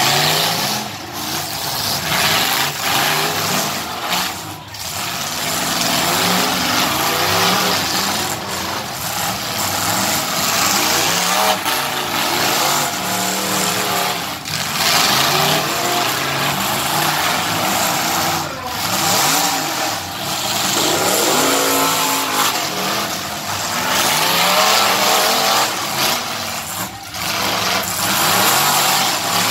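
Several demolition derby cars and trucks running at once, their engines revving up and down repeatedly over loud, continuous noise.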